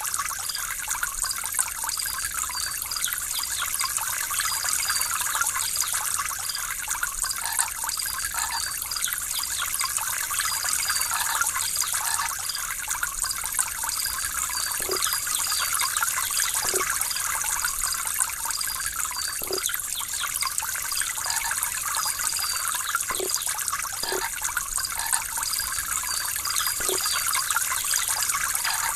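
Water trickling and babbling steadily, like a small stream or fountain, with a few low plops.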